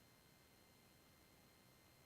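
Near silence: a faint steady hiss with no distinct sound.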